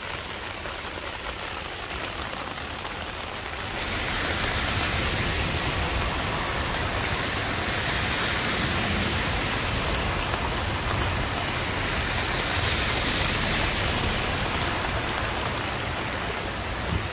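Heavy rain falling on a flooded street: a steady hiss. About four seconds in it becomes louder and brighter, and cars can be heard swishing through standing water.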